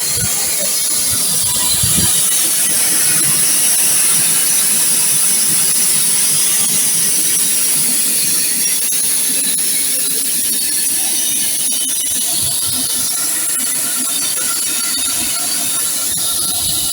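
Steam locomotive: a steady, loud hiss of steam with irregular low rumbles underneath.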